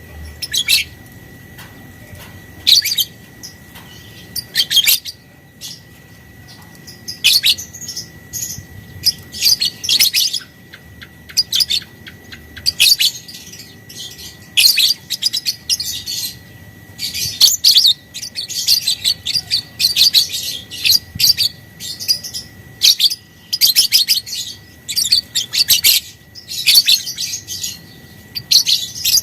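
Lovebird chattering in repeated bursts of rapid, shrill chirps, the long chattering trill that keepers call 'ngekek'. The bursts come every second or two with short pauses between them.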